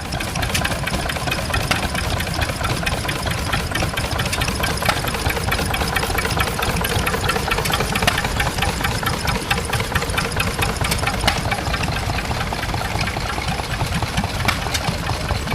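A stationary engine running steadily with a fast, even knocking beat.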